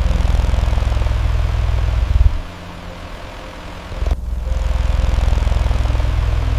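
Domestic cat purring, a low pulsing purr that pauses for under two seconds about two seconds in and then resumes, over the steady whoosh of an electric fan.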